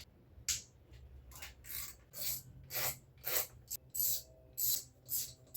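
Hand tool working the valve cover bolts loose on a Cobra replica's engine: a run of short rasping strokes, about two a second.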